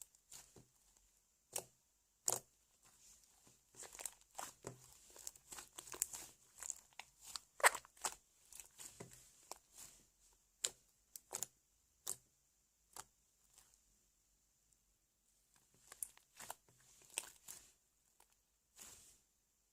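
Slime being squeezed and stretched by hand, making irregular crackling pops and clicks that come in clusters with a short pause partway through.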